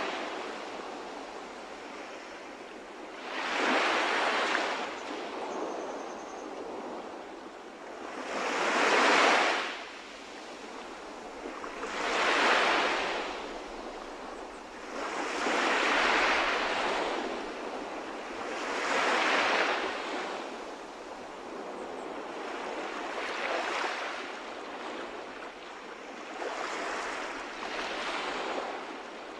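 Calm sea waves washing in and breaking, a rushing surge about every three to four seconds that swells and fades away between waves.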